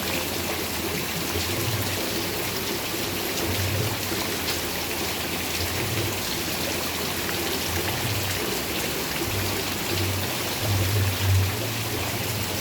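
Steady rain falling, a dense even hiss with many separate drop hits, and an uneven low rumble underneath that grows a little stronger near the end.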